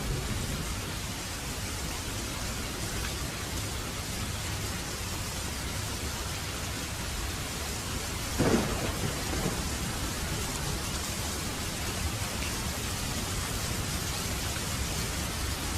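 Heavy rain falling steadily, with a sharp clap of thunder about halfway through that rumbles on briefly.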